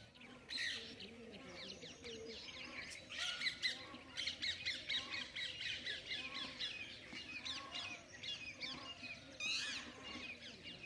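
A dense chorus of small birds chirping and twittering. Through the middle of it a lower call repeats about once a second.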